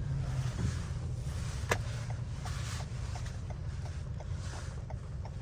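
Steady road and engine rumble with tyre and rain hiss inside a moving car on a wet road. After a single click a little under two seconds in, the turn-signal indicator ticks evenly, about three ticks a second.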